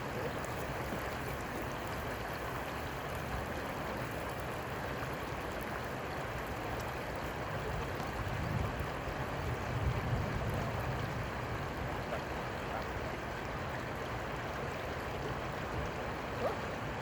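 Steady rush of flowing river water, swelling slightly in the low end about halfway through.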